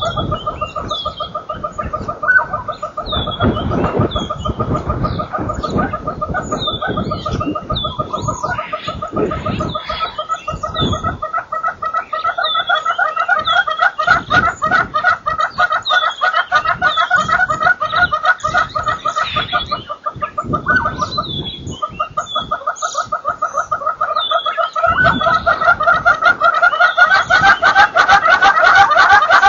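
A chorus of birds calling: fast, rhythmic cackling calls that carry on without a break and grow louder near the end, with short, higher, falling chirps over them.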